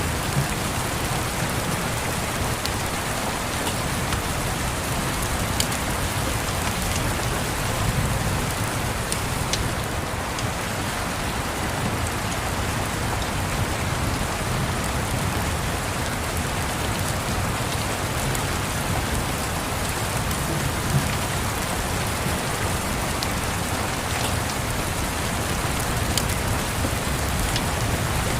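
Steady rain on a surface over a low rumble of distant thunder, with a few sharp fireplace crackles now and then.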